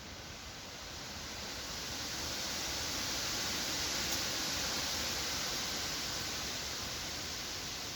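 Wind blowing through forest trees, a rushing hiss of leaves that swells over the first few seconds and eases a little near the end.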